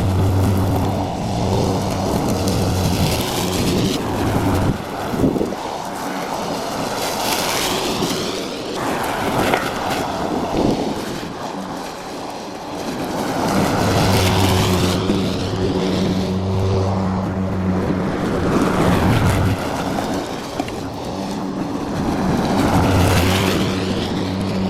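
Lawn mower engine running steadily while mowing grass. Its low hum weakens for several seconds in the middle and then comes back strong.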